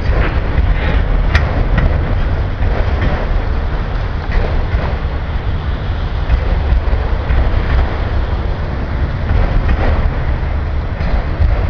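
Freight train of autorack cars rolling past close by: a steady low rumble of wheels on rail, broken by scattered sharp clicks and clanks.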